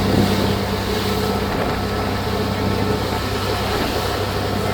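Ferry's engines running with a steady low hum under an even rushing noise of water and wind.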